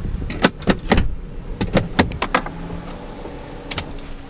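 A quick run of sharp clicks and knocks over the first two and a half seconds, like something being handled in or around a car, followed by a quieter stretch with a faint steady hum.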